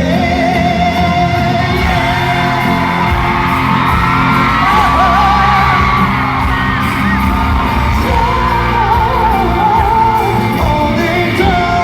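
A male singer performs a pop ballad live with band accompaniment, holding a long note and then singing wavering, ornamented ad-lib runs, while the audience yells and screams in a large hall.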